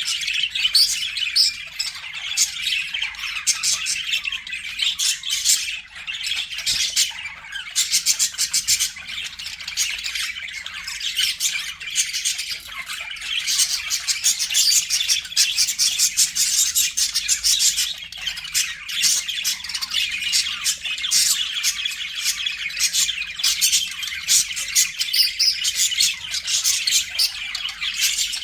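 Budgerigars chattering without a pause, a dense run of rapid chirps, squawks and clicky trills.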